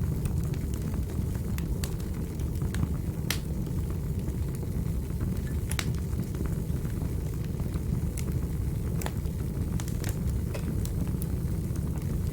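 Fireplace fire crackling, with irregular sharp pops over a steady low rumble of flames.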